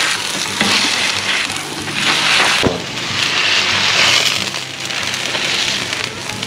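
Boiled red potatoes sizzling in olive oil on a hot Blackstone flat-top griddle as they are smashed with a metal burger press. The sizzle swells and fades several times, with a sharp click about two and a half seconds in.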